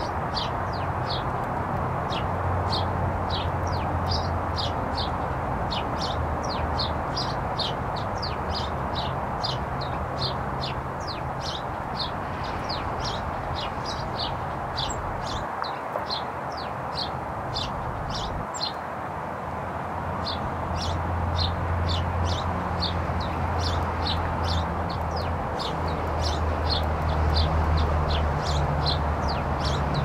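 A small bird calling a long series of short, high, downward-slurred notes, about four a second, that stops for a few seconds midway and then starts again. A steady low hum and a rushing noise run underneath.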